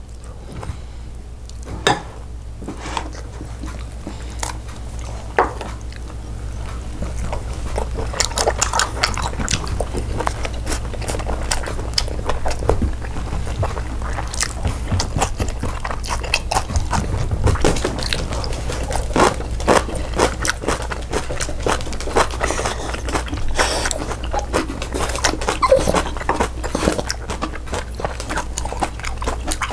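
Close-up chewing and crunching of food: many short crunches and clicks, growing busier about eight seconds in, over a steady low hum.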